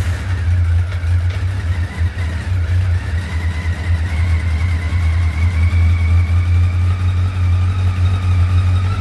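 Motorcycle engine running steadily just after catching on a cold start, on choke, with its freshly cleaned carburetors now keeping it alive instead of letting it die.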